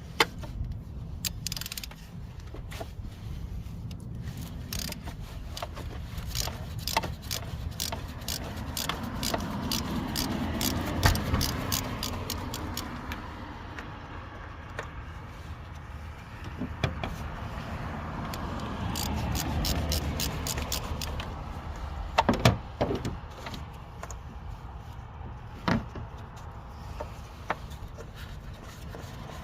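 Tools working the oil filter housing cap off a Chevy Cobalt's 2.2-litre engine with a 1 1/4 inch low-profile socket: many scattered metallic clicks and a few sharper clanks over a low background rumble that swells twice.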